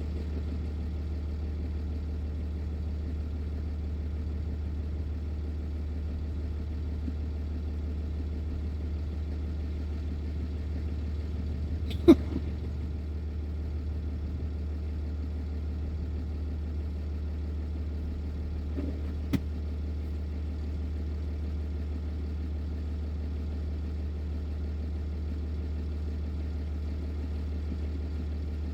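Semi truck's diesel engine idling with a steady low hum, broken by one sharp knock about twelve seconds in and a lighter click about seven seconds later.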